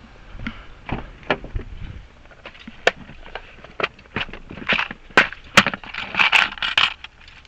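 Metal key blanks and small lock parts clinking and clicking as they are handled and sorted by hand: scattered light clicks at first, becoming busier and louder in the second half.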